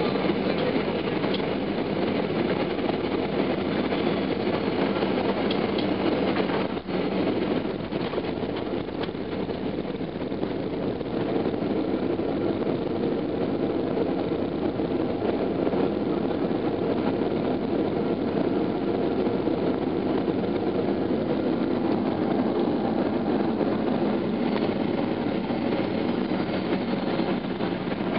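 Steady rumble of engine and airflow noise heard inside the cabin of a Boeing 737-800 with its CFM56 turbofans, around the landing. There is a brief click and dip about seven seconds in.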